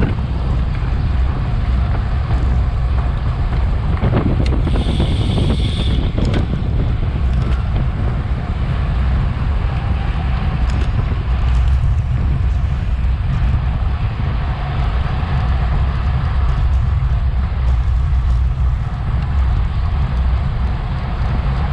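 Wind buffeting the microphone of a bicycle-mounted action camera while riding, a steady low rush. A brief high-pitched tone sounds about five seconds in.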